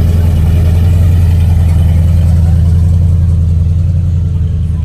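Car engine running close by with a steady, deep, loud rumble that eases off slightly near the end.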